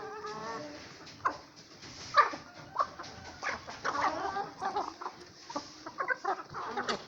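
Chickens clucking and calling in short, overlapping bursts.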